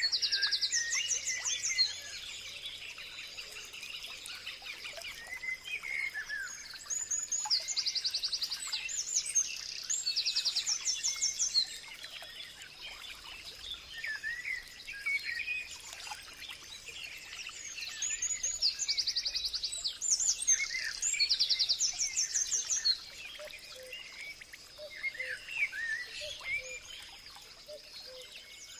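Several birds singing and chirping. One bird repeats a fast trilled phrase every few seconds, and a steady thin high tone sounds underneath.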